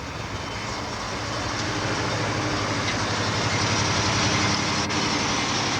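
Car engine running with a low, pulsing rumble, growing louder over the first few seconds and then holding steady.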